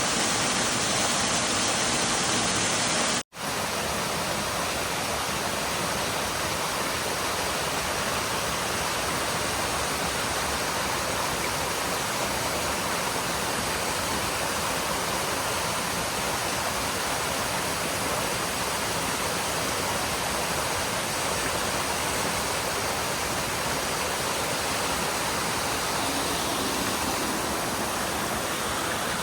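Steady rush of water from a rocky stream or waterfall. It cuts off abruptly about three seconds in and resumes slightly quieter.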